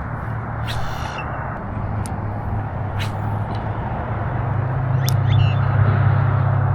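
A steady low mechanical hum, like a vehicle engine, growing louder toward the end, with a few sharp clicks scattered through it.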